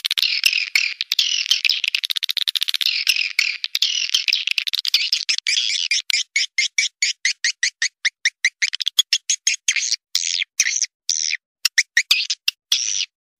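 Recorded swiftlet calls played as a lure track to draw swiftlets into a nesting house. The first half is dense, continuous twittering chirps; the second half turns into rapid trains of sharp clicks with brief gaps. Nothing lies below the high pitches.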